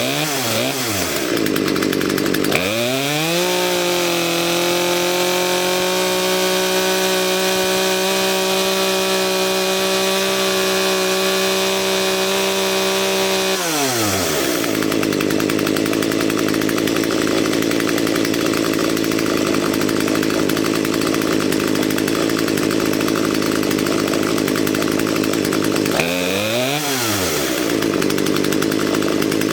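Poulan P3816 two-stroke chainsaw engine running while its carburettor is being adjusted. It is blipped a few times, then held at high revs for about ten seconds, and drops back to idle. One more quick blip comes near the end before it settles to idle again.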